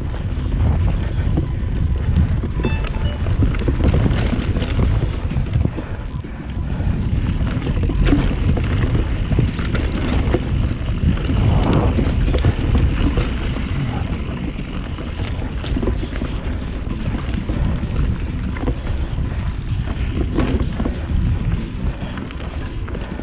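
Mountain bike riding down a dirt singletrack trail: wind buffeting the chest-mounted action camera's microphone as a steady rumble, with tyres rolling over roots and rocks and the bike rattling in frequent short knocks and clatters.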